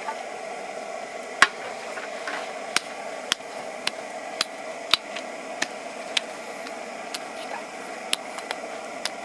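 Rain falling with a steady hiss, with about fifteen sharp, irregular ticks of drops hitting a hard surface, roughly one or two a second.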